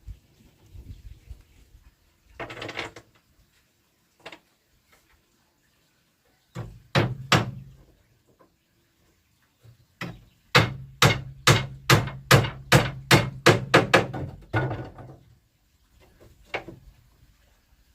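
Hammer blows on wood, as in nailing cabinet boards: a few strikes, then a quick, even run of about a dozen blows at roughly three a second.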